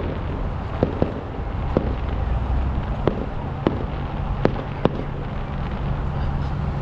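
Fireworks going off: about eight sharp bangs at irregular intervals over a steady low hum.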